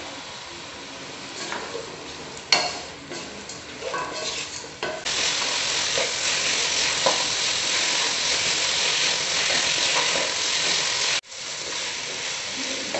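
Chicken pieces and their liquid frying with grated coconut and masala in a nonstick pan, stirred with a spatula. A few scraping strokes come first, then from about five seconds in a loud, steady sizzle that breaks off abruptly near the end and resumes quieter.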